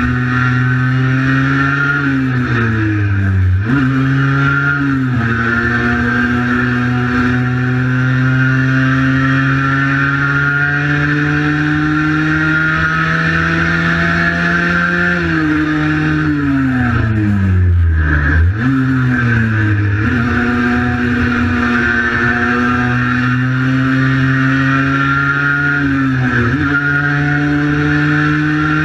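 Cagiva Mito 125's single-cylinder two-stroke engine running hard at high revs while ridden. The engine note holds steady for long stretches and falls away three times, about 2 seconds in, from about 15 to 18 seconds, and near 26 seconds, as the bike slows. Each time it jumps sharply back up as the bike drives on again.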